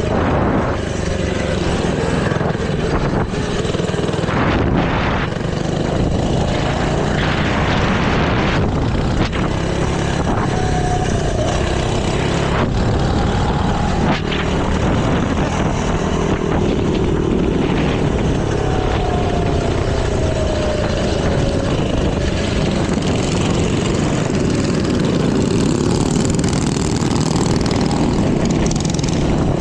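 Small minibike engines running steadily under way during a group ride, with a few rises and falls in pitch as they rev.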